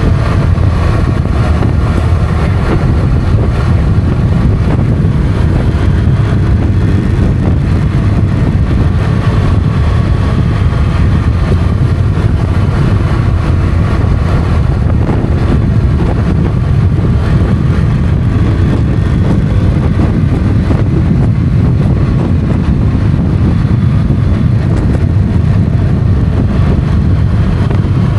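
Motorcycle underway at a steady pace: engine running evenly, mixed with wind and road noise.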